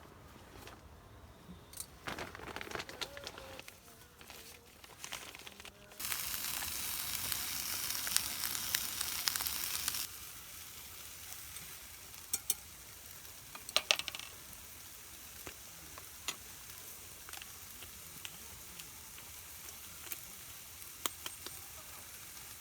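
Food frying in a hot pan: steady sizzling with scattered sharp pops. A few knocks and clinks come first, and the sizzle is loudest and hissiest for a few seconds in the middle.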